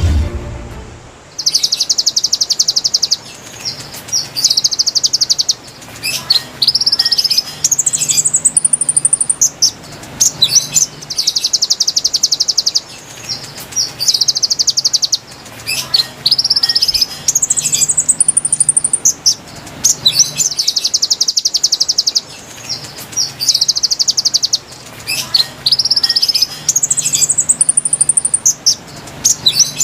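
Konin bird song played as a lure recording. The same phrase repeats about every five seconds: a high, fast buzzy trill, a few shorter trills, then whistled notes climbing in pitch.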